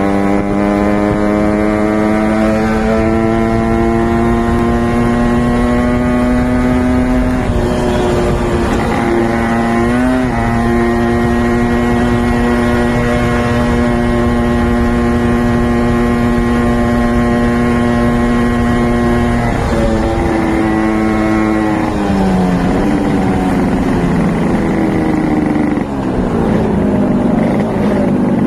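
Suzuki A100 single-cylinder two-stroke motorcycle engine held at high revs, its pitch creeping up for the first several seconds and then holding steady. About twenty seconds in, the revs drop and waver.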